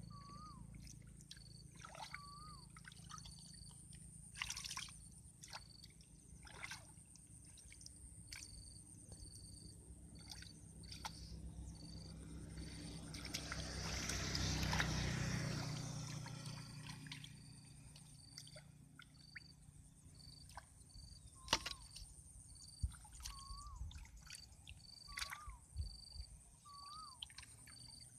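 Water sloshing and trickling with scattered splashes, swelling into a louder rush of water about halfway through. Over it runs a steady high chirp repeating a few times a second, and a short rising-and-falling call every couple of seconds.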